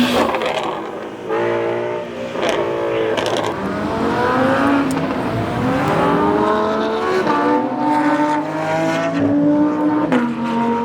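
Performance car engine accelerating hard, its pitch climbing and dropping back several times as it shifts through the gears, with a few sharp cracks.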